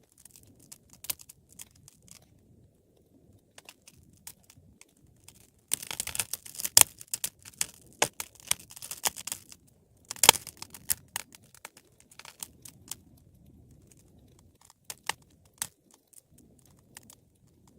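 Wood fire crackling, with scattered snaps and pops. A dense run of crackling comes about six seconds in, and a single loud, sharp pop comes about ten seconds in.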